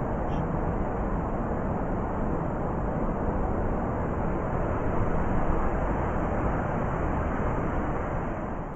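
Blizzard wind blowing in a steady, dense rush with a deep rumble, swelling a little midway and easing near the end.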